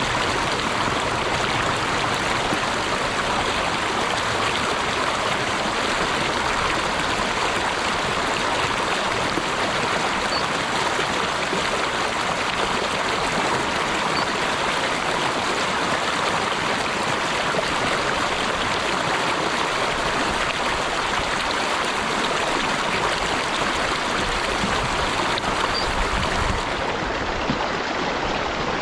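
Running water of a stream flowing steadily, an even rushing sound with no breaks, turning slightly duller about two seconds before the end.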